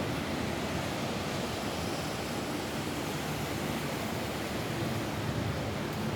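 Rain falling steadily on a roof, a constant even hiss with a low rumble underneath.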